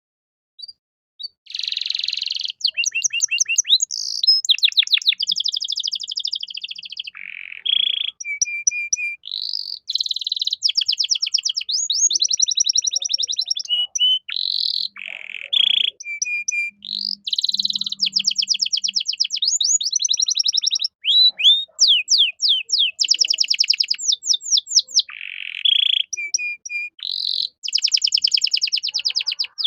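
Domestic canary singing a long run of rapid trills and rolls, strung together from fast repeated notes and quick falling sweeps with only short breaks, starting about a second and a half in.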